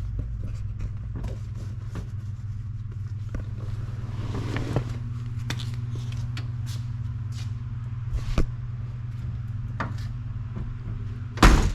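Ford 390 V8 engine idling steadily, with scattered clicks and knocks of handling around the car. There is a loud thump near the end.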